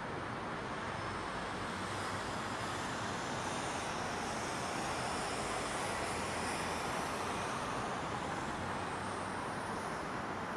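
Steady hiss of distant traffic over a residential neighbourhood in the evening, with a gentle swell in the middle as more vehicle noise passes and fades.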